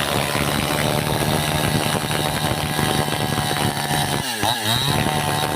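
Chainsaw running at high revs, with the revs dropping briefly about four seconds in and then rising straight back up.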